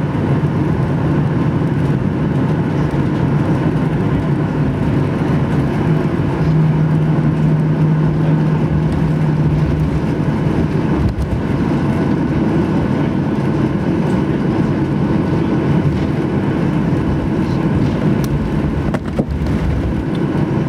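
Cabin noise inside a Boeing 737-800 with its CFM56 turbofans running: a loud, steady rumble of engine and airflow with a constant low hum.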